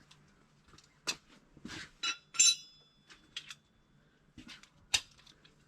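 Metal hand tools clinking and tapping against each other and against engine parts, a handful of sharp clicks, one with a short metallic ring a little over two seconds in.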